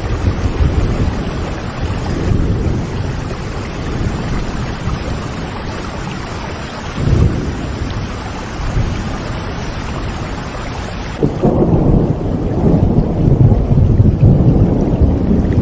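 Steady rain with rolling thunder. About eleven seconds in, the sound changes suddenly: the hiss of the rain drops back and a louder, deeper rumble takes over.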